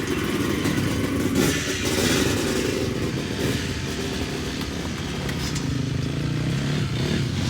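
Vintage twinshock motocross motorcycles running under throttle, a steady rough engine noise.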